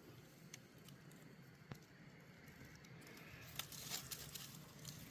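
Near silence, with a few faint clicks and a brief crackling rustle a little before the end.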